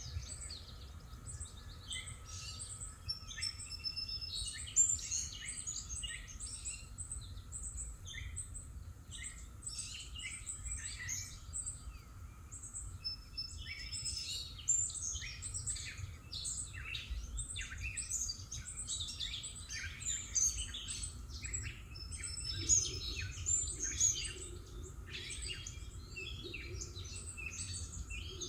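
Songbirds chirping and singing, many short calls overlapping, over a low steady background rumble and a faint steady drone.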